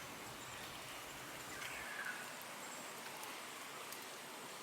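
Faint, steady rainforest background hiss, with a faint distant bird call falling in pitch about two seconds in.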